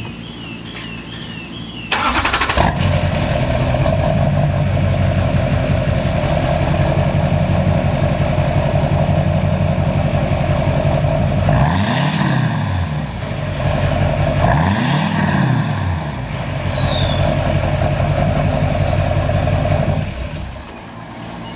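A 2004 Duramax LLY turbo-diesel V8 pickup engine starts about two seconds in and idles steadily. It is revved twice, briefly, about ten and thirteen seconds in, and is shut off near the end.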